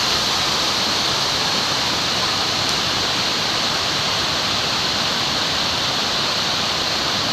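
Waterfall: a steady, even rush of falling water with a bright hiss, unchanging throughout.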